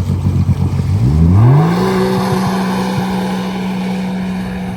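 Jet ski engine rumbling, then revving up about a second in, its pitch climbing quickly before holding steady at speed.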